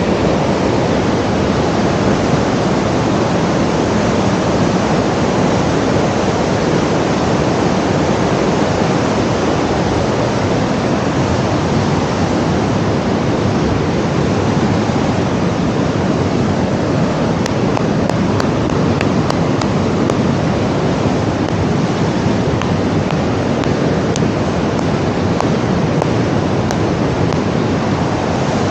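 Steady, even rushing noise that holds the same level throughout, with no rhythm or change.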